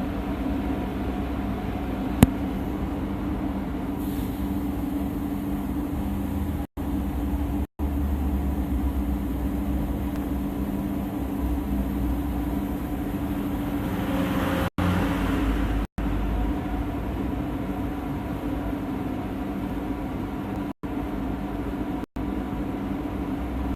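DPF cleaning machine running steadily, its high-pressure water pump humming as water is forced through the particulate filter. A sharp click comes about two seconds in, and a louder rush of water swells around the middle.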